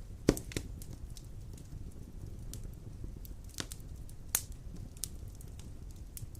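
Wood fire burning in a stone fireplace: a steady low rumble of the flames with scattered sharp crackles and pops, the loudest pop about a third of a second in and another clear one a little past four seconds.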